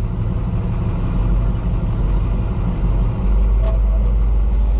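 Farm tractor engine running steadily with a low rumble, growing a little louder about three seconds in.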